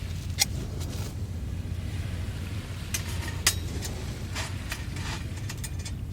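Scattered sharp clinks and taps of camp cookware being handled, over a steady low rumble of wind and surf.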